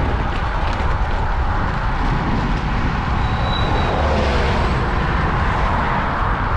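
Wind buffeting the microphone of a moving bicycle, over steady road traffic noise that swells briefly about four seconds in as a vehicle goes by.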